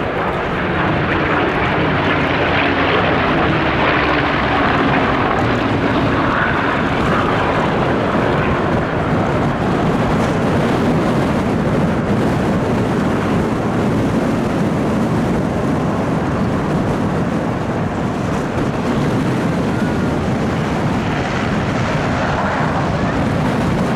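Rolls-Royce Merlin V12 piston engines of Second World War Hurricane and Spitfire fighters flying a display pass, loud and steady, with the engine pitch dropping slightly in the first few seconds.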